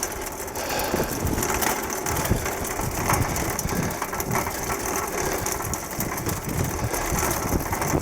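Bicycle ridden at a steady pace: continuous rattling and rumbling of the bike and its tyres on the path.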